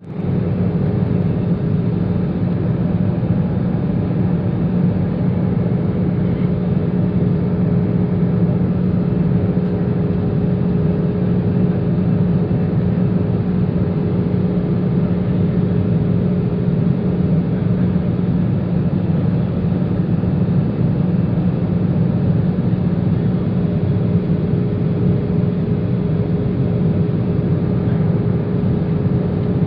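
Cabin noise inside an Airbus A320-200 on final approach: a steady rush of airflow and engine noise from its CFM56 turbofans, with a thin steady tone running through it.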